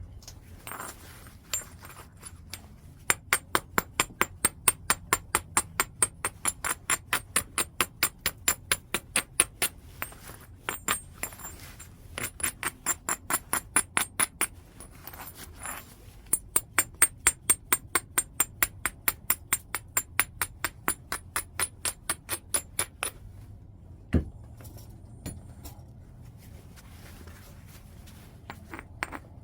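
White chert being struck in rapid, regular taps by a knapping percussor, about three to four sharp clicks a second with a bright ringing edge. The taps come in three long runs with short pauses between them, followed by a single duller knock.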